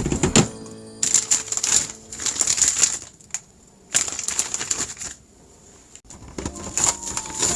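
Plastic packaging and storage cases being handled, rustling and clicking in three bursts, over soft background music.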